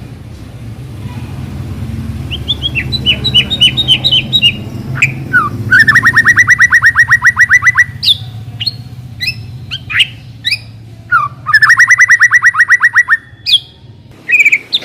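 White-rumped shama (murai batu) singing: a quick run of high notes, then two long, fast rattling trills of about ten repeated notes a second, separated by short sharp whistles. A low rumble runs underneath during the first half.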